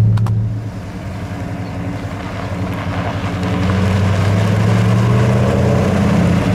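The 1967 Dodge Coronet R/T's 426 Hemi V8 running at low speed with a steady low engine note, which dips just under a second in and then grows louder from about two seconds in.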